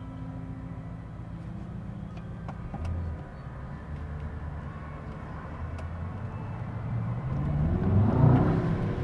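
The Mercedes-AMG S63 E Performance's 4.0-litre twin-turbo V8 runs with road noise at a steady pace. About seven seconds in, its note rises as the car accelerates, and it is loudest near the end.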